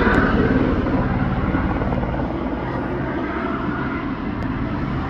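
Police helicopter circling overhead, its rotor blades chopping steadily, gradually getting fainter.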